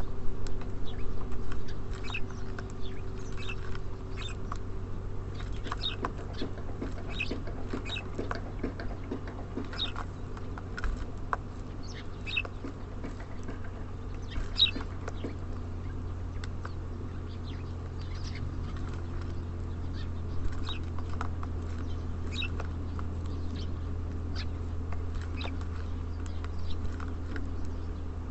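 Small songbirds chirping: many short, high call notes, scattered irregularly throughout, over a steady low hum.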